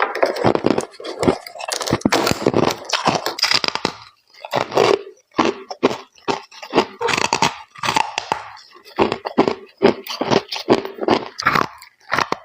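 Close-miked biting and crunching of chunks of humidifier freezer frost: runs of crisp, sharp crunches with short pauses between bites.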